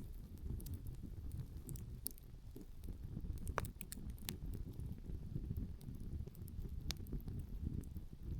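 Open wood campfire burning, the firewood crackling and popping in scattered sharp snaps. Two louder pops come about midway and near the end, over a steady low rumble.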